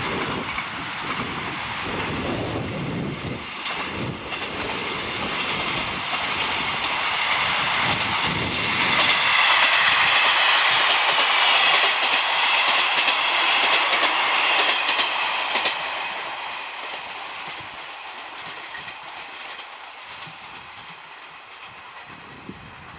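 Train passing at speed, its wheels clattering over the rail joints. The sound grows to a peak about halfway through with a high whine, then fades away.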